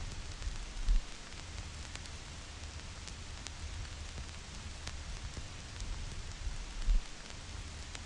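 Vinyl record surface noise: a steady hiss with scattered small clicks and pops from the stylus in the groove, over a low rumble. Two louder low thumps stand out, one about a second in and one near the end.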